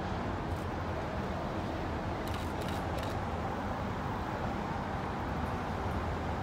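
Steady low rumble of a GE Arrow III electric multiple-unit commuter train approaching in the distance, mixed with outdoor background noise. A few faint high ticks come about two to three seconds in.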